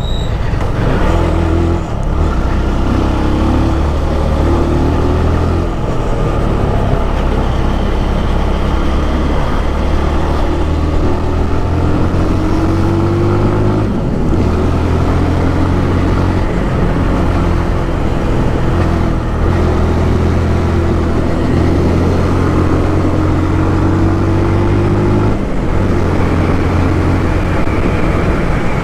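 Motorcycle engine running under way, its pitch climbing and then dropping back every few seconds as it pulls through the gears, with steady wind and road noise.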